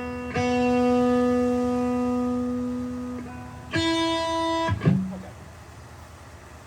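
Guitar plucking single notes: a long ringing note just after the start, a shorter higher note near four seconds, then a brief low note, after which the playing stops.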